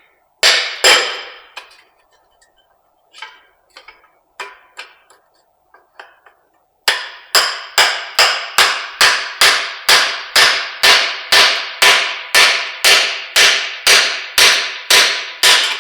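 Hammer blows driving the wrist pin out of a broken small-block Chevy piston. There are two heavy blows at first, then some lighter taps, and from about seven seconds in a steady run of hard blows a little over twice a second.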